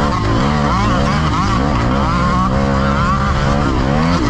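Dirt bike engine running hard, its pitch rising and falling again and again as the throttle opens and closes.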